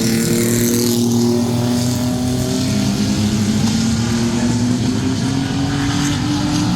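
Sport-truck race engines running at speed on a short oval track, with one engine note held steady and slowly rising in pitch.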